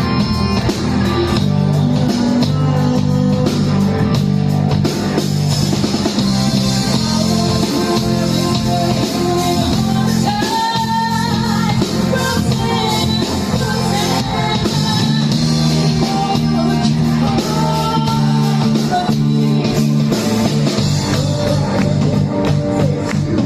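Rock band music recorded live: a singer over electric guitar and a drum kit, played steadily and loud.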